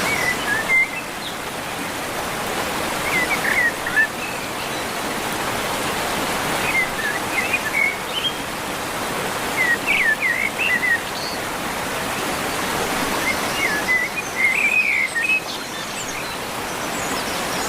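Steady rush of running water, a stream or waterfall, with birds chirping in short bursts every three seconds or so.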